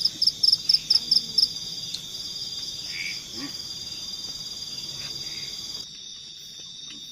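Night insects in the forest trilling steadily at a high pitch. A run of about eight loud, quick chirps sounds in the first second and a half. One of the trills stops near the end.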